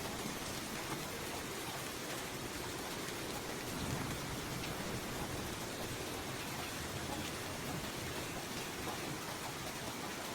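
Steady rainfall pattering on surfaces, an even hiss of rain with scattered individual drops.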